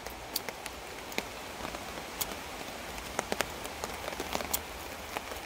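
Rain falling on a tarp overhead: a steady hiss with scattered sharp drop taps.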